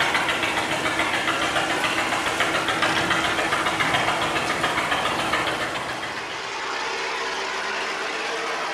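Boat engine running with a rapid knocking beat. About six seconds in it gets quieter and goes on steadier.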